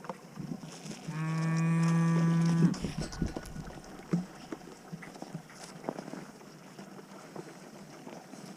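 A cow mooing once: a single steady, loud call about a second and a half long that cuts off abruptly. Faint knocks and rustles follow.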